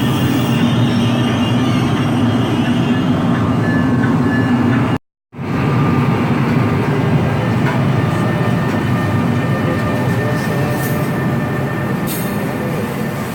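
Train rolling past close by: a loud, steady rumble of wheels on rail that cuts out abruptly for a moment about five seconds in, then resumes and eases off near the end.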